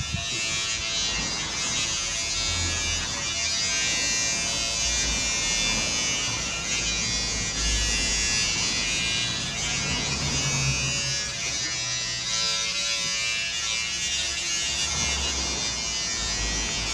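Electric hair clippers running with a steady buzz while cutting hair, with uneven low rumbles as they move against the head.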